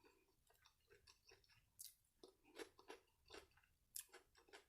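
Faint close-up chewing of fried seafood: wet mouth clicks and crisp crunching bites, with a few sharper crunches, the loudest about four seconds in.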